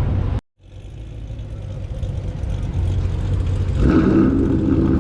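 Car engines running at a car meet. The sound cuts out briefly about half a second in and fades back up, and around four seconds in a louder engine comes in with a steady pitched note.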